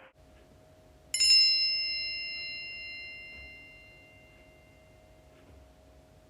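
A single bell-like chime struck once about a second in, ringing and fading away over about four seconds: the cue tone that marks the pause between segments in a NAATI interpreting practice dialogue.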